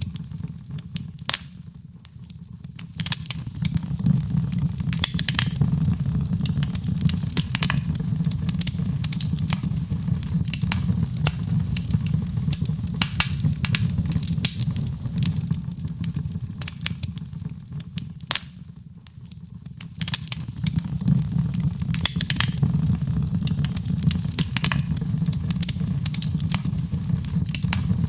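Wood fire crackling and popping with many irregular sharp snaps over a steady low rumble of burning. The whole sound briefly dips and swells back twice, about two seconds in and again after about nineteen seconds.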